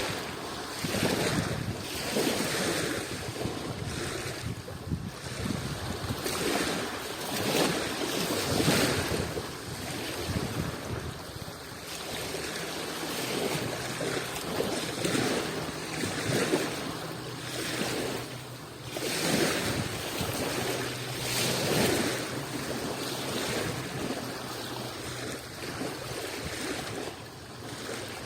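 Adriatic Sea waves breaking and washing in, the rush of water swelling and falling away every couple of seconds.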